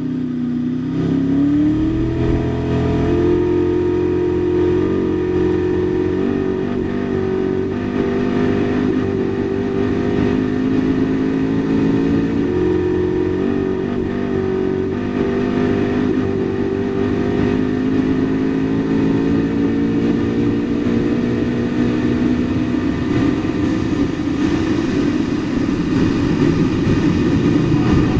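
Koenigsegg Regera's twin-turbo V8 running hard at speed during a 0-400-0 record run. The engine note jumps up in pitch about two seconds in, climbs slowly as the car gathers speed, and falls away near the end.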